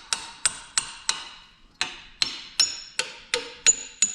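Hammer tapping on a steel-and-aluminium compression-release lever from a Cummins diesel, about eleven sharp, ringing metallic strikes in two runs with a short pause about a second and a half in. The tapping works a rust-seized steel pivot pin loose in its aluminium housing.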